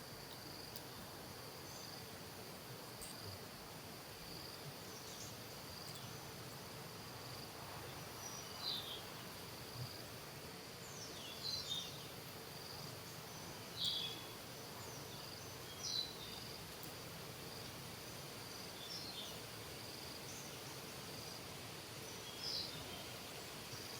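Steady high-pitched insect drone, with about six short, high chirping calls standing out over it in the second half.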